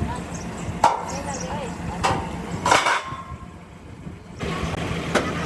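Hammer blows on metal: about four sharp strikes at irregular spacing, the third the loudest, over a steady low hum that drops out briefly in the middle.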